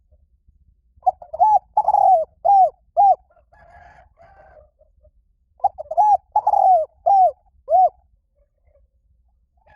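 Spotted dove cooing: two phrases of about five rounded, arching coos each, a few seconds apart.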